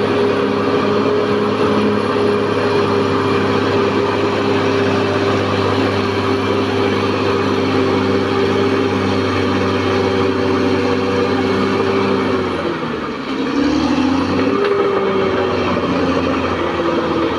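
Caterpillar D6R XL bulldozer's diesel engine running steadily. About twelve seconds in, its pitch drops briefly and then comes back up.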